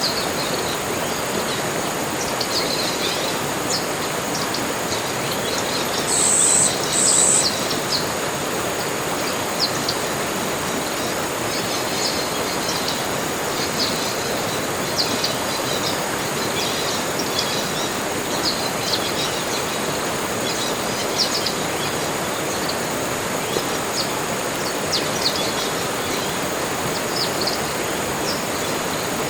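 Tropical forest ambience: many small birds chirping over a steady hiss and a constant high-pitched drone, with two louder short high calls about six and seven seconds in.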